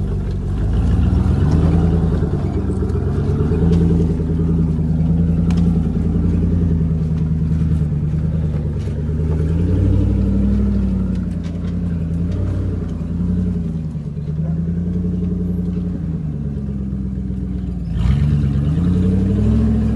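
Four-wheel-drive Jeep's engine running under load, its revs rising and falling in slow waves as it works over rough ground. About two seconds before the end the sound cuts abruptly to another vehicle's engine.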